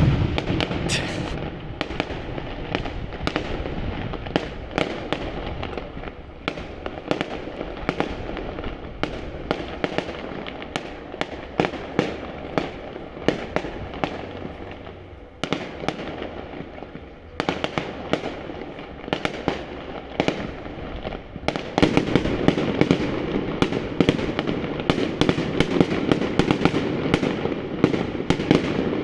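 Fireworks display: a steady run of bangs and crackling from shells bursting overhead, growing denser and louder about three quarters of the way through.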